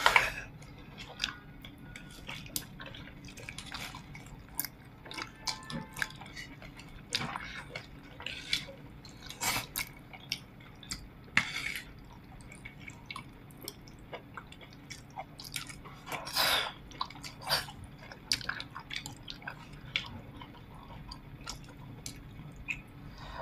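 People chewing and gnawing braised pork ribs: irregular wet mouth noises, with scattered short clicks and a few longer slurping bursts.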